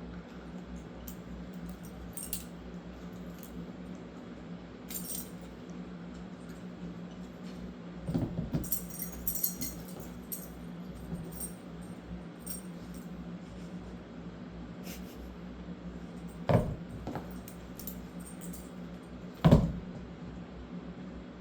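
German shepherd puppy chewing on a ring toy: scattered clicks and clinks, a busy stretch of knocking partway through, and two louder knocks near the end.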